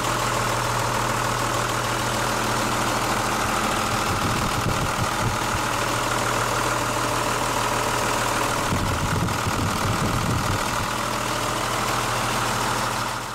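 Mitsubishi Fuso Fighter truck's 8.2-litre diesel engine idling steadily.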